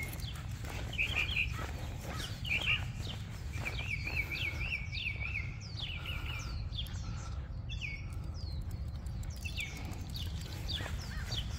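Small birds chirping, with many quick downward-sliding chirps and a warbling trill about four seconds in, over a steady low rumble.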